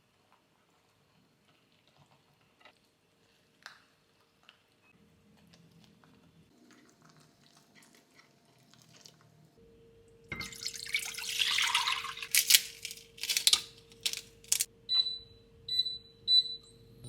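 Kitchen tap water running for about two seconds, then several short spurts of water, followed by three short electronic beeps from a kitchen appliance. Faint clicks and handling sounds come before the water.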